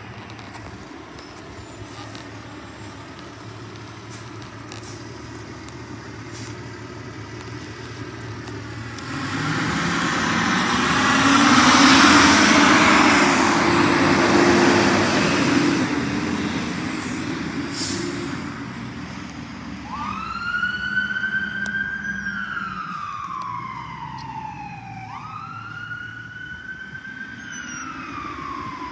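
A fire engine drives past: its engine and road noise grow louder from about nine seconds in and are loudest a few seconds later. From about twenty seconds a siren sounds in a repeating whoop, rising quickly and then sliding slowly down, about every five seconds, while the overall sound fades.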